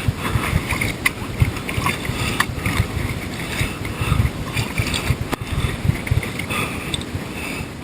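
Kayak being paddled: water splashing and dripping around the paddle and plastic hull, with scattered knocks, over a low, uneven rumble.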